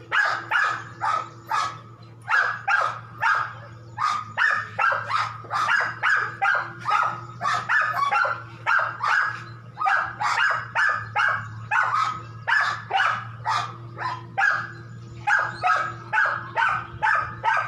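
A dog barking over and over, short barks in quick runs of about two to three a second, with hardly a pause. A steady low hum runs underneath.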